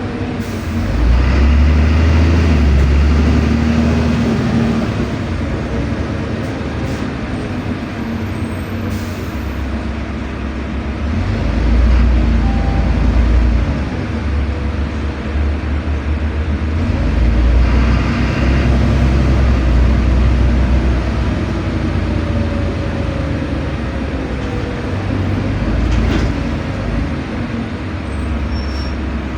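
LiAZ-5292 low-floor city bus heard from inside the passenger cabin: engine and drivetrain rumbling steadily, swelling louder three times as the bus picks up speed and easing off in between.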